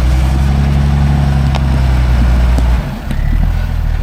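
Truck engine running steadily under throttle, then easing off suddenly about three seconds in and settling to a lower, rougher note.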